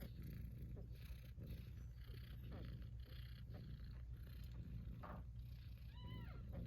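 Persian cats purring steadily, with a short rising-and-falling kitten meow near the end.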